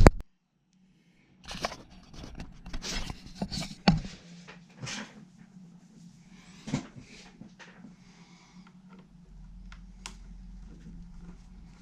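Hands working at a bench, with irregular clicks, taps and rustles of small parts and tools over a steady low electrical hum.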